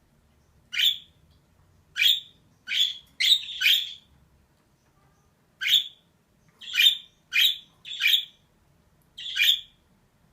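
Female budgerigar giving short, sharp chirping calls, about ten of them in uneven groups with short pauses between.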